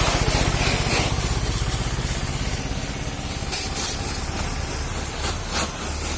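High-pressure car-wash pump running with a steady low pulsing, with short bursts of water spray hissing twice in the second half.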